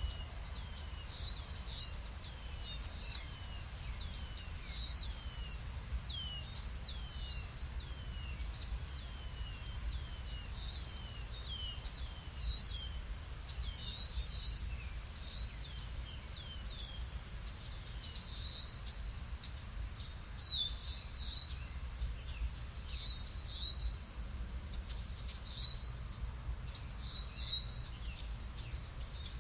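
Birds chirping throughout, many short calls that sweep quickly down in pitch, over a steady low rumble.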